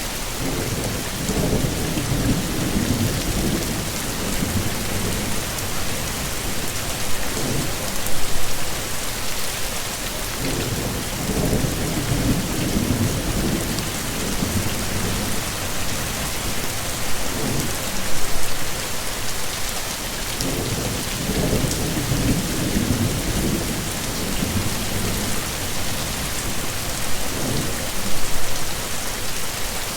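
Heavy rain falling steadily, with low rolls of thunder rumbling in and out several times.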